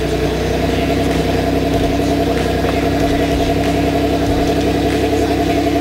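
1993 Buick LeSabre's 3.8-litre V6 idling steadily through a Borla exhaust with quad outlets, just after start-up.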